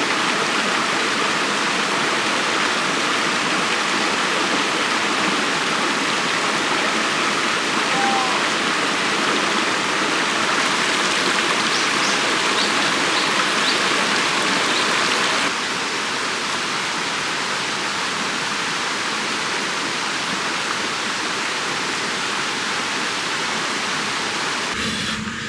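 Mountain stream rushing steadily over rocks, dropping slightly in level about two-thirds of the way through. A few faint high chirps sound over it.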